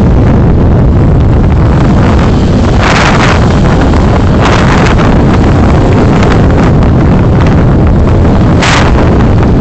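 Steady low road and wind rumble from a moving car, picked up by a dashcam microphone, with short bursts of hiss about three seconds in, around four and a half seconds and near the end.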